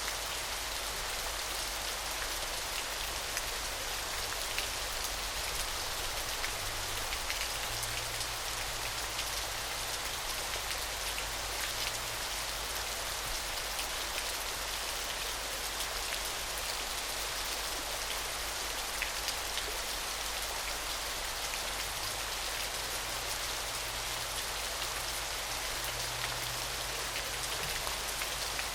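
Small waterfall splashing steadily: an even hiss of falling water full of fine patter and droplet ticks.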